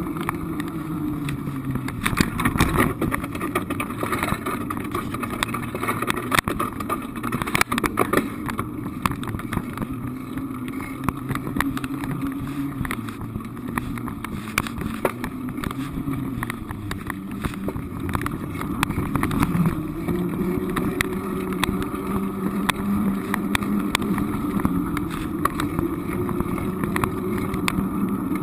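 Vehicle engine and road noise heard from inside the cabin while driving, the engine's pitch rising and falling with speed, with frequent small knocks and rattles.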